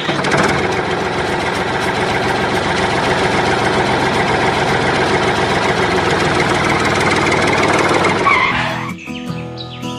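A machine running with a loud, rough, continuous noise that cuts off suddenly near the end, giving way to music.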